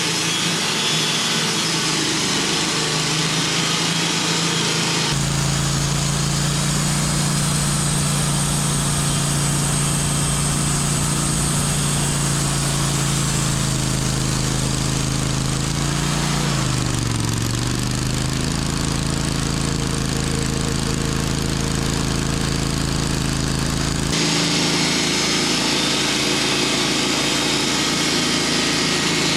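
Sawmill engine running steadily while sawing a log. Its pitch dips briefly about sixteen seconds in and then recovers, as if it is loaded in the cut. The sound changes abruptly about five seconds in and again near the end.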